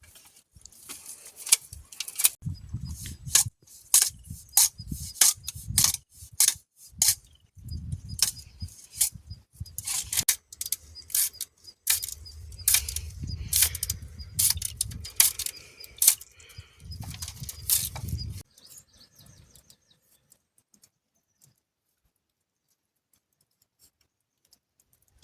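Irregular sharp clicks and clattering knocks with low thumps, like objects being handled, stopping about three-quarters of the way through.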